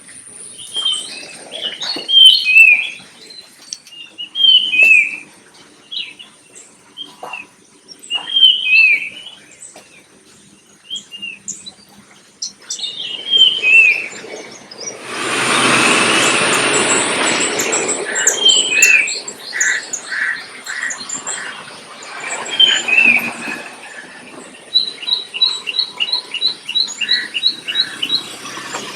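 Birds chirping and singing in short, repeated down-slurred calls, with a quick run of high, even notes near the end. About halfway through a loud rushing noise swells up for a few seconds under the calls.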